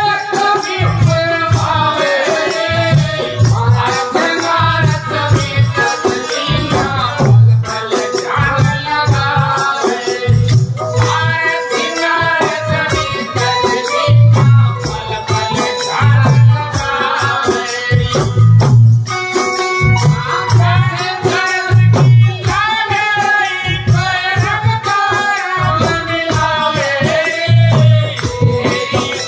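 A man singing a devotional bhajan over music with a steady low beat and a shaker rattle.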